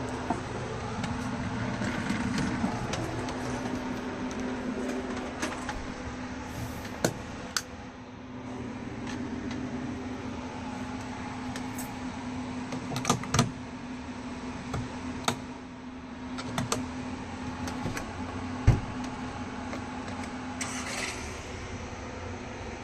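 A steady low hum with an even tone, broken by scattered sharp clicks and knocks, one heavier thump near the end.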